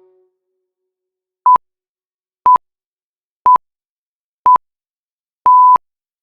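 Electronic countdown timer beeping: four short beeps at one steady pitch, a second apart, then a longer fifth beep marking the end of the countdown.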